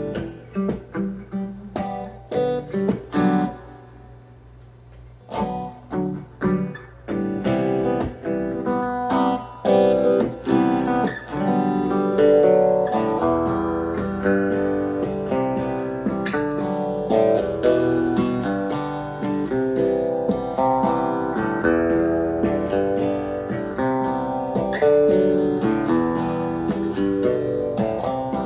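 Acoustic guitar playing: separate picked notes at first, a short pause about four seconds in, then denser, continuous playing.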